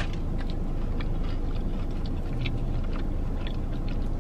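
A person chewing a mouthful of fried chicken finger, with soft, irregular small clicks of the chewing over a steady low hum inside a car's cabin.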